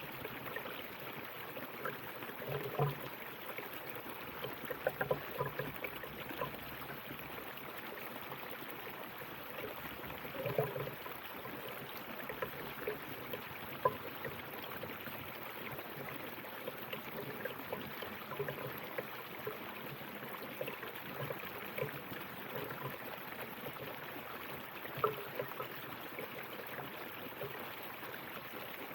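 River water flowing steadily over rocks, with small irregular splashes and gurgles breaking through the even rush.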